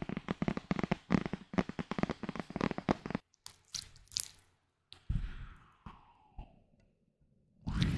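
Close-miked ASMR handling of small objects: a fast run of sharp taps and clicks for about three seconds, then a few scattered taps. A dull thud with a fading tail follows about five seconds in, and a heavier thud comes near the end.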